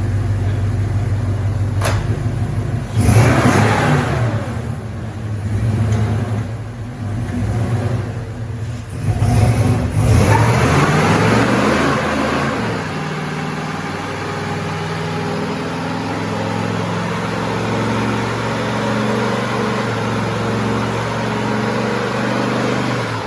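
LS V8 engine in a Jeep Cherokee Chief, through a Flowmaster 70 series muffler, revving hard twice, rising and falling each time. It then runs on steadily at higher speed under load.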